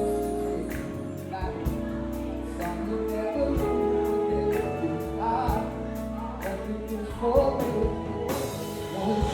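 Live soul band playing, with a singer's voice over held keyboard chords and regular drum hits.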